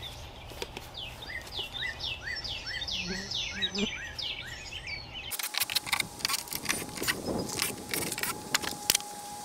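A bird repeats a short down-slurred chirp about twice a second over a low rumble; about five seconds in this gives way to a run of sharp knocks and clicks, with a faint steady whine underneath.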